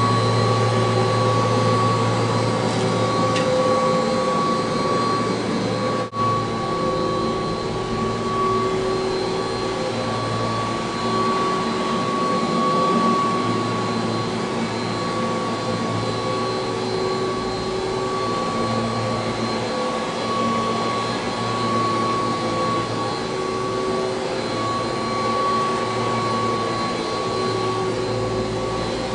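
A 1985 Kirby Heritage II upright vacuum cleaner running steadily with a constant high motor whine, dipping briefly about six seconds in.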